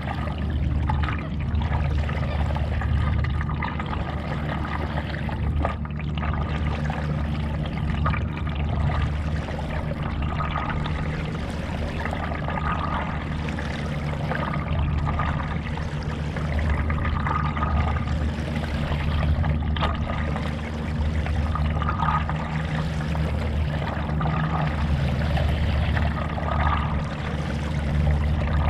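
A paddle dipping and pulling through lake water in a regular stroke, a swish about every two and a half seconds, over a steady low rumble.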